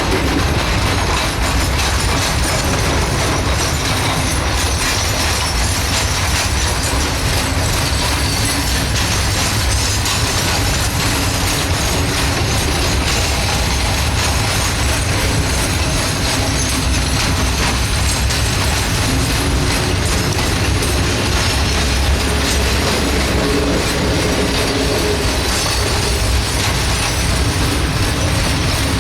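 Diesel-hauled freight train passing slowly while climbing a grade, a steady, continuous rumble of locomotives and wheels on rail.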